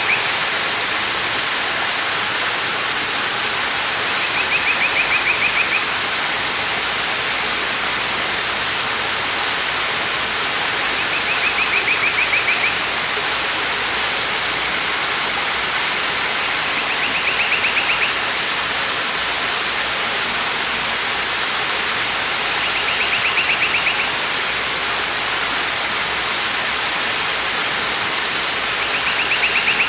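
Waterfall rushing steadily, with a bird repeating a short, rapid, high trill about every six seconds, five times.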